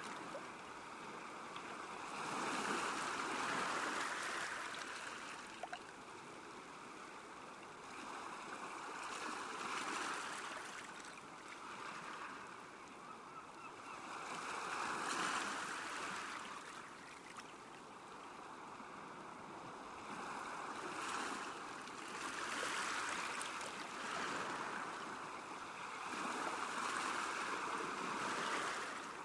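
Small lake waves lapping at the shore, the wash swelling and easing every few seconds.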